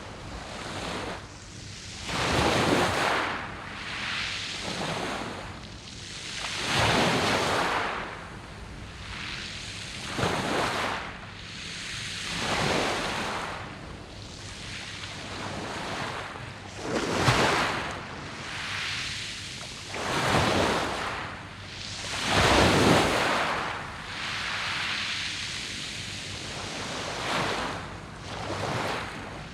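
Sea waves breaking and washing over a round-pebble beach, coming in uneven surges every few seconds.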